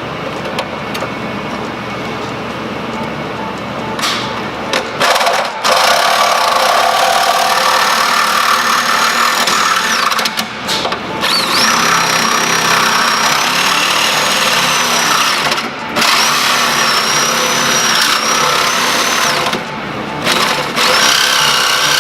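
Power cutting tool cutting into a car's steel chassis, running in long stretches with brief pauses, a steady high whine over harsh grinding noise.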